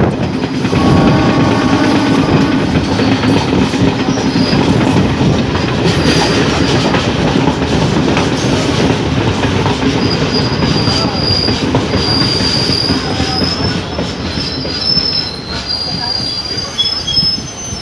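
Indian Railways DEMU (diesel-electric multiple unit) train running at speed, heard from a coach window: a steady rumble of wheels on rail with clickety-clack, joined about ten seconds in by a high, wavering metallic wheel squeal.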